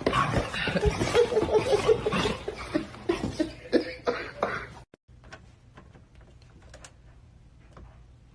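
A person's coughing and chuckling vocal noises for about five seconds, cutting off suddenly into a quiet stretch with a few faint clicks.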